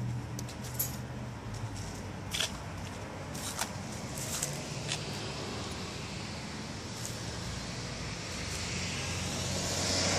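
Chevrolet 6.5L turbo-diesel V8 idling steadily, with scattered sharp clicks over it and a hiss that grows near the end.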